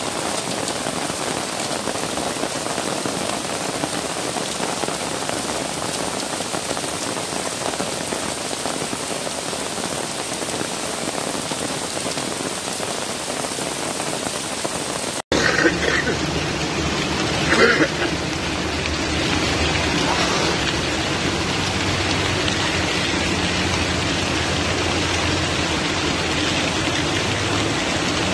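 Heavy rain pouring steadily. About halfway through the sound cuts abruptly to another stretch of heavy rain, with a low steady hum beneath it and a couple of brief louder noises shortly after the cut.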